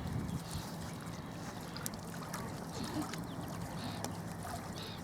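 Lake water lapping at the shore over a steady low wind rumble, with faint, scattered short bird calls.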